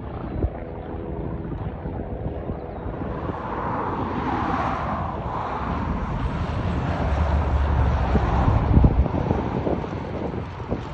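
Piper PA-28-161's four-cylinder piston engine and propeller droning as the plane flies over, growing louder to a peak near the end and then easing off, with wind buffeting the microphone.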